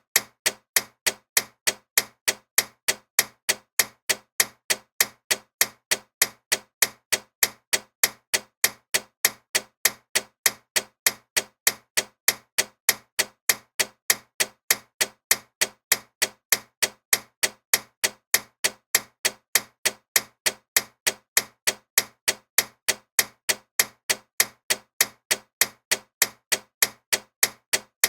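Loud ticking clock: sharp, evenly spaced ticks a few times a second, with near silence between each tick.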